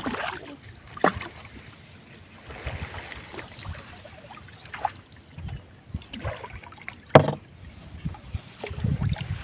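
Water sloshing against a small palm boat on the move, with a few sharp knocks or splashes, the loudest about seven seconds in.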